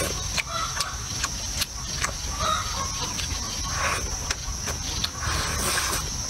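Close-up chewing and wet mouth clicks of someone eating a mouthful of food, with chickens clucking now and then in the background and a steady high-pitched drone underneath.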